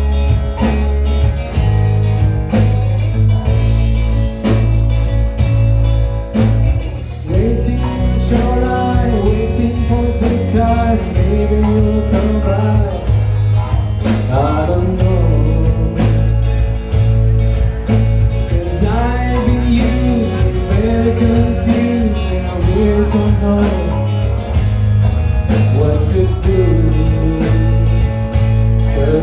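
A live band playing a rock song, with a heavy bass line, drums and guitar; a voice sings the melody from about seven seconds in.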